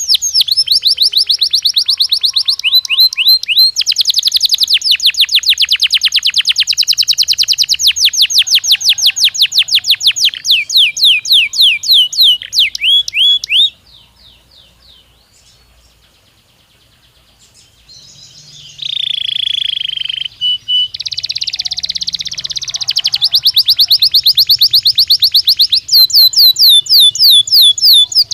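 Belgian canary singing: long runs of fast repeated trilled notes. The song breaks off for a few seconds about halfway, then resumes with a short held whistle and more rapid trills.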